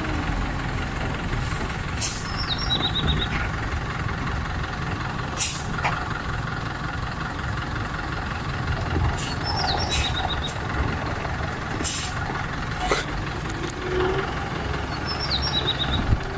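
Heavy truck running with a steady low engine rumble, broken by several short sharp hisses. A small high chirp with a few quick trailing notes repeats about every six or seven seconds.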